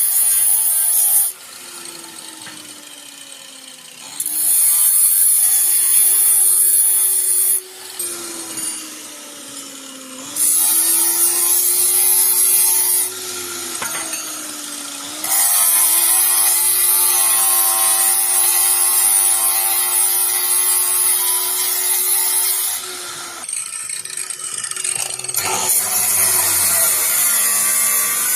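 Motorised cutting saw running, its loud gritty grind coming and going in several passes of a few seconds each, with the motor's pitch dipping and recovering between passes.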